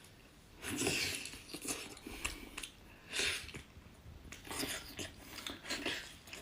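Close-up eating and food-handling noises: a string of short crackles and wet clicks about a second apart as small shellfish heads are broken open and eaten.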